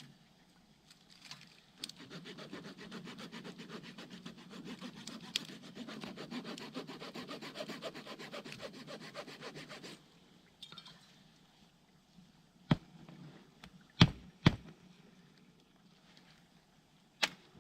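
Hand saw cutting through wood with quick back-and-forth strokes for about eight seconds, then a few sharp knocks of wood.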